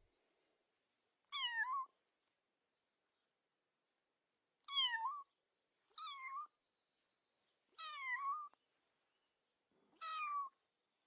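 A cat meowing five times, with short pauses between calls. Each meow lasts about half a second, is high-pitched and drops in pitch before turning up slightly at the end.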